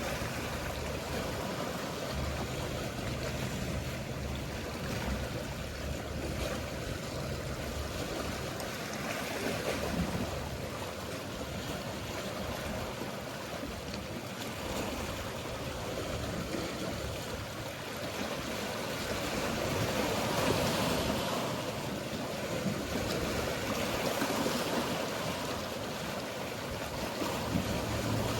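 Mediterranean sea waves washing steadily, swelling louder about ten and twenty seconds in, over a low hum of boat engines.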